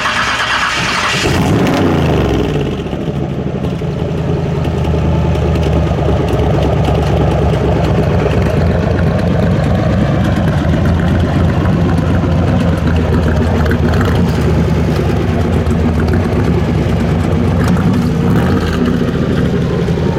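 Car engine at high revs that fall away about a second in, settling into a steady, deep idle. A short rev rises near the end.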